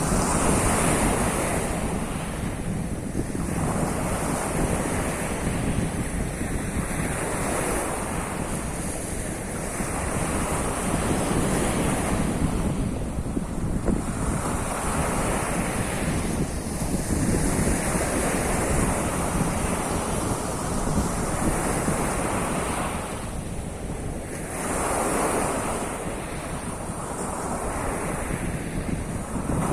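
Sea surf: waves breaking and washing on the shore, swelling and ebbing every few seconds, with wind buffeting the microphone as a steady low rumble.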